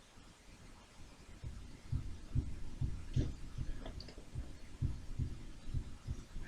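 Soft low thumps repeating about two or three times a second, starting about a second and a half in, with a few light clicks in the middle.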